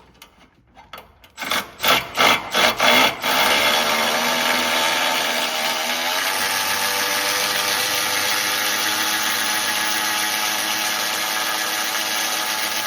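Electric ratchet driving a long steering-rack bolt through the rack bushing and subframe: a few short bursts of the motor, then a steady whir from about three seconds in as the bolt threads through.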